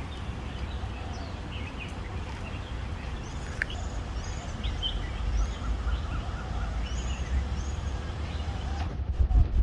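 Several birds chirping and calling, with short high notes and repeated arched whistles, over a steady low rumble. A few low thumps come near the end.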